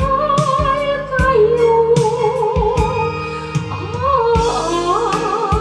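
Woman singing a Korean ballad, holding a long note with vibrato on "날까요" before moving to a new phrase near the end, over a band backing with a regular drum beat.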